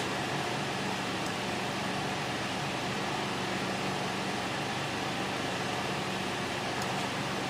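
Steady mechanical hiss with a faint low hum, the even background noise of a running fan or air-handling machine in a room.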